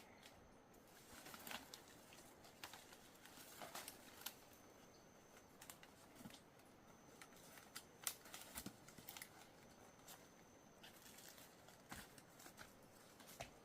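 Faint, scattered crackles and rustles of leaves, stems and soil being handled while digging among plants for tubers. A faint high steady whine comes and goes.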